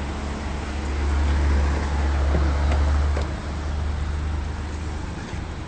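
Street traffic noise with a deep rumble that swells about a second in and eases off after about three seconds.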